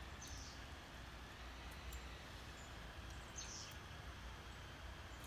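Quiet outdoor ambience: a steady low rumble, with a few short high chirps from small birds, the clearest about three and a half seconds in.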